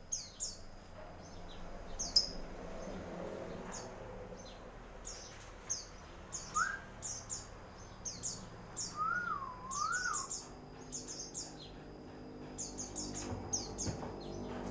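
Small pet birds chirping: short, high chirps in quick clusters, with a couple of lower whistled notes near the middle, one of them wavering up and down.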